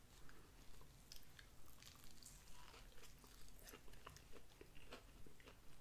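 A person biting into and chewing a breaded fried chicken sandwich on a soft bun. The chewing is faint, with small irregular clicks.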